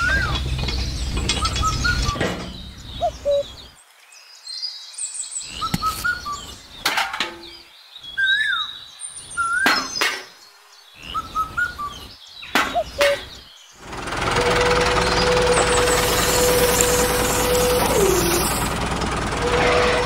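Birds chirping in short calls, mixed with sharp clicks and knocks, with brief quiet gaps. About fourteen seconds in, a loud steady mechanical engine-like noise with a held whine starts and keeps going.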